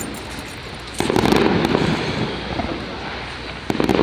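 Fireworks display: a shell bursts with a sudden boom about a second in, rumbling away over the next couple of seconds, and a second boom follows near the end.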